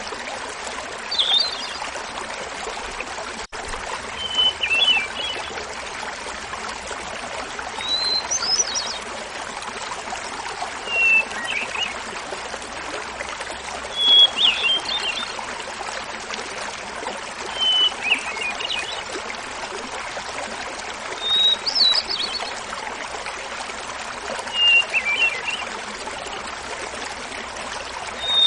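Hermit thrush singing over a small waterfall's steady babble: about eight flute-like phrases, one every three to four seconds, each a held opening note followed by a quick fluttering flourish, repeated at alternately higher and lower pitches.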